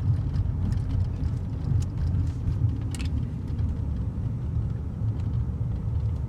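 A 1999 Dodge Intrepid with a 2.7-litre V6 being driven, heard from inside the cabin as a steady low rumble of engine and road noise. There is a brief click about halfway through.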